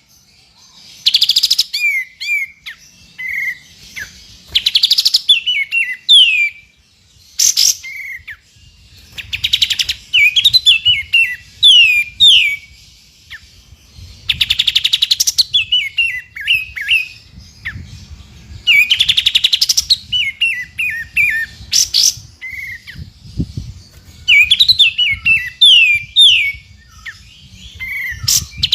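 A songbird repeats a short song phrase every four to five seconds: a harsh, buzzy burst, then a quick run of sharp, falling whistled notes. It is 'tembakan' (shot-call) tutor song of the kind played to train white-rumped shamas.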